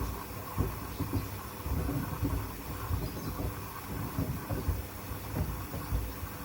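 Hoover front-loading washing machine drum tumbling a load of wood pieces, which thud and knock irregularly against the drum, several knocks a second, over a steady hiss.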